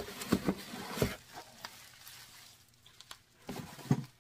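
Crinkling packaging and a few light knocks as a hard-shell makeup case is handled and unpacked.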